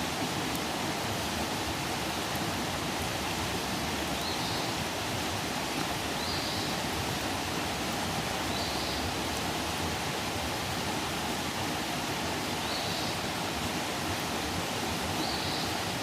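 Outdoor campfire burning with a steady hiss and a few faint crackles. A short high chirp recurs about every two seconds.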